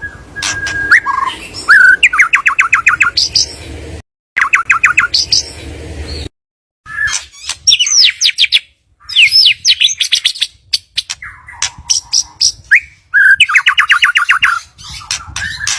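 White-rumped shama (murai batu) song played as a lure recording: fast runs of evenly repeated notes, about ten a second, alternating with sweeping whistles. The sound cuts out abruptly twice, briefly around four seconds in and again between six and seven seconds.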